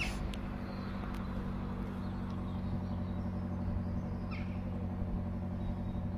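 Electric express train approaching on the curve, a steady low hum. There is a short high bird chirp about four seconds in.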